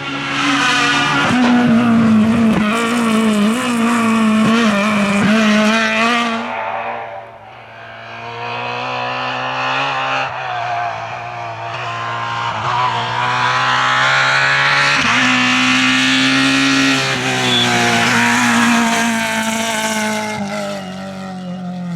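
Groupe F2000 rally car's naturally aspirated engine revving hard at full attack, its pitch rising and falling through gear changes. It drops away about seven seconds in, then builds again and stays loud until near the end.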